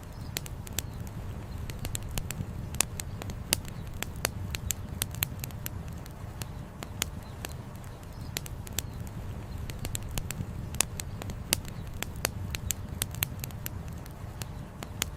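Wood campfire crackling, with irregular sharp pops several times a second over a steady low rumble.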